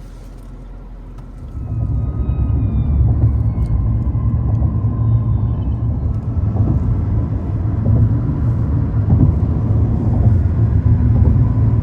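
Car driving, a loud low rumble that starts suddenly about a second and a half in.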